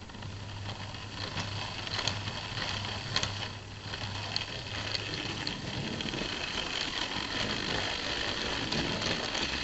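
Tri-ang Hornby 0-4-0 tank engine model locomotive running: the whirr and rattle of its small electric motor and gears, with sharp clicks of wheels on the track, over a low steady hum that fades about halfway through.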